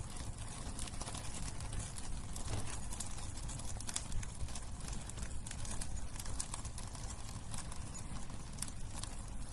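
Wood bonfire burning, the logs giving frequent, irregular sharp crackles and pops over a steady low rumble.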